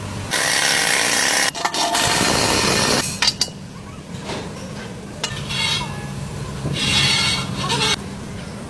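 A power tool working metal in two loud noisy spells: one of about three seconds with a brief break in the middle, then a shorter one of about a second near the end, with a low steady hum under the second half.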